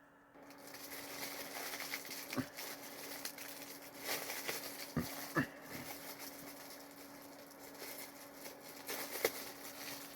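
Food wrapper rustling and crinkling as the cookie is handled, with a few sharp knocks.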